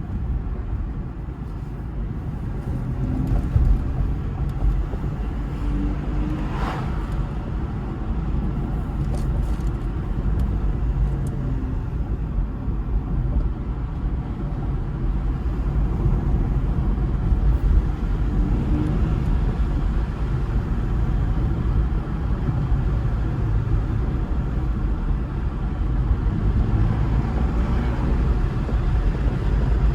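Steady low rumble of road and tyre noise inside the cabin of an electric BMW under way, with no engine running. A brief louder swish comes about seven seconds in.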